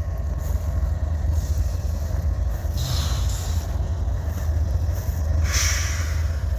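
Diesel freight train running past, a steady low rumble, with brief hissing rushes about three seconds in and again near the end.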